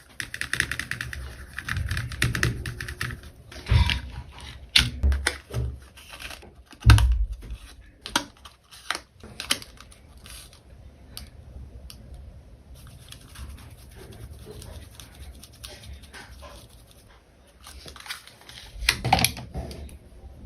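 Hands packing an order: rustling and quick tapping as small items and packaging are handled, with louder thumps about 4, 5 and 7 seconds in, and a burst of rustling near the end.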